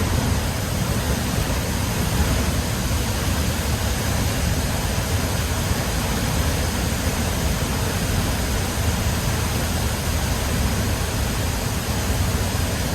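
A large waterfall pouring into its pool: a steady, heavy rush of water that never changes.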